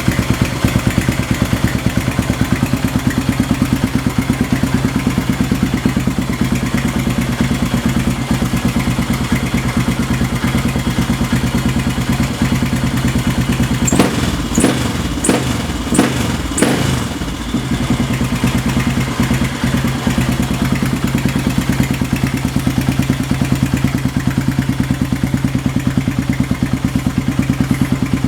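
Motorcycle engine idling steadily through an aftermarket exhaust. About halfway through comes a run of five or so sharp cracks over roughly three seconds, then the steady idle carries on.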